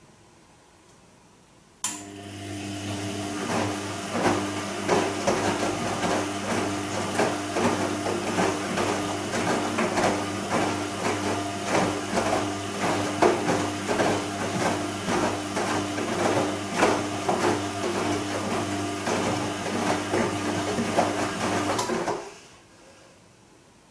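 Bosch Serie 2 VarioPerfect washing machine turning its drum in a wash tumble on the Silk programme: a steady motor hum with irregular thuds and splashes of wet laundry falling inside the drum. It starts abruptly about two seconds in and stops about twenty seconds later, one turn of the drum's wash rhythm.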